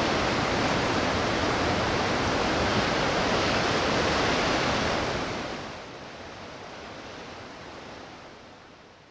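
Rushing water of a valley stream swollen by monsoon rain, a steady loud roar that drops sharply about halfway through and then fades away.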